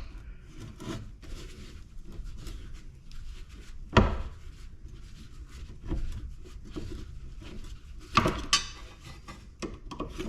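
Hand tools and metal scrap parts knocking and clinking during disassembly, with one sharp knock about four seconds in and a quick cluster of clanks near the end.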